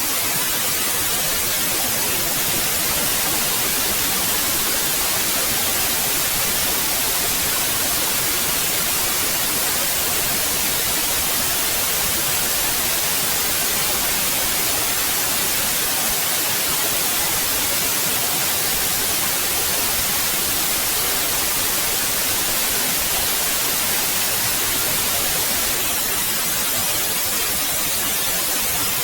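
Synthetic white noise: an even, unchanging hiss spread across all pitches, brightest in the highs.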